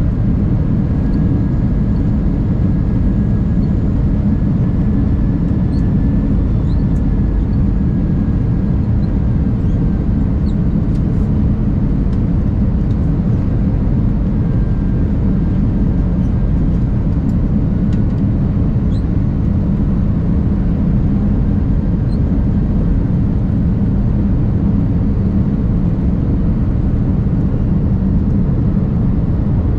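Steady low rumble of an Airbus A319's engines and airflow heard inside the passenger cabin, with a faint thin whine riding above it.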